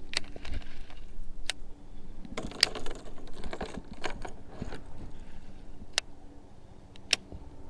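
Fishing reel being cranked to retrieve a crankbait: a steady mechanical whirr with a handful of sharp, irregular clicks.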